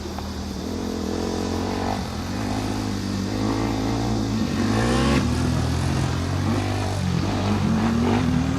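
Motocross dirt bike engine running and revving, its pitch rising sharply about halfway through as the throttle opens and climbing again near the end.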